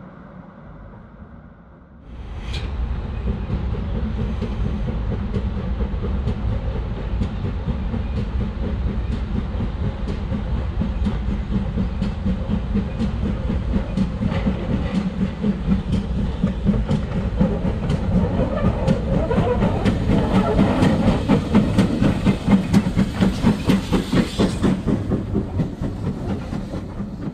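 Heritage railway train running along the track with a regular clickety-clack beat. It comes in suddenly about two seconds in, and the beat grows stronger in the second half before easing off near the end.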